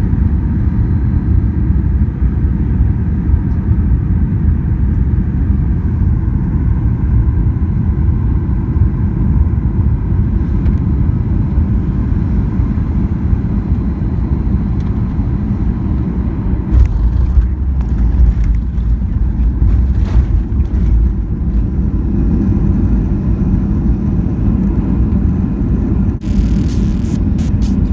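Airliner cabin noise on landing: a steady low rumble of engines and airflow. About two-thirds of the way through it grows heavier, with knocks and rattles, as on touchdown and the roll along the runway. Near the end a loud hiss rises.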